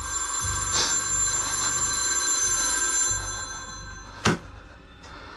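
Old rotary-dial telephone's bell ringing for about three seconds, then dying away. A single sharp knock comes about four seconds in.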